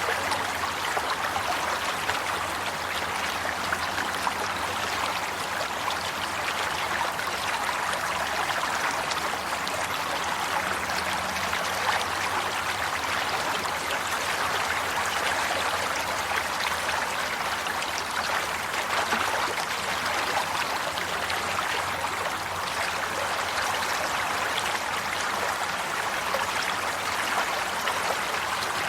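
Water flowing and trickling steadily, like a small stream running over rocks, with fine bubbling and splashing detail throughout.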